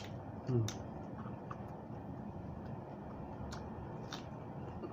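Scattered sharp mouth clicks of someone eating raw vegetables, with a short voiced murmur about half a second in, over steady background hiss.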